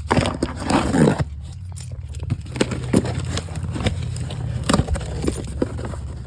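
A cardboard parts box being opened and unpacked by hand: a run of scrapes, crackles and small knocks, over a steady low hum.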